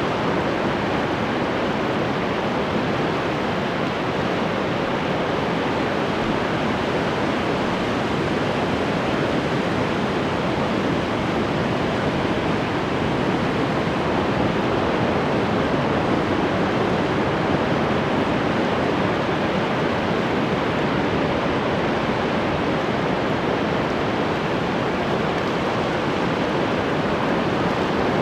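Ocean surf making a steady, even wash with no distinct wave breaks standing out.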